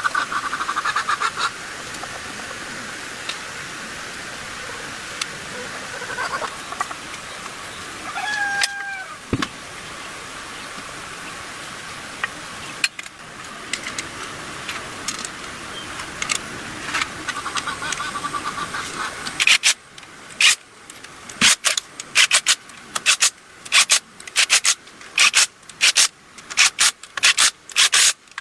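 Compressed-air spray hissing, steady at first, then in short sharp bursts about two a second for the last third.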